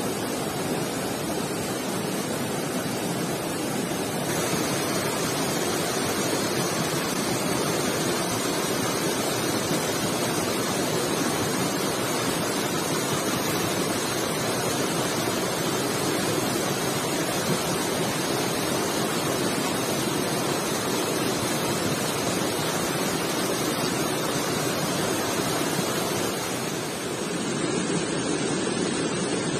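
Rushing stream water, a steady, loud, even rush that changes slightly in texture a few seconds in and dips briefly near the end.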